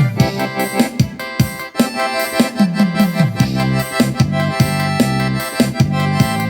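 Accordion playing an instrumental tune over a steady beat and bass line.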